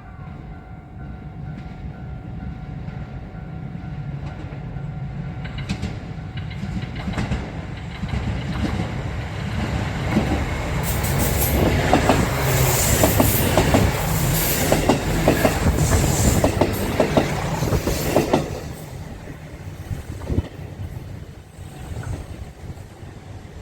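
Nanohana rapid diesel railcar train approaching and passing close by. The low engine drone builds up, the wheels clack rapidly over the rail joints with a high squeal as it goes by, loudest in the middle, and the sound drops off suddenly and fades as it moves away.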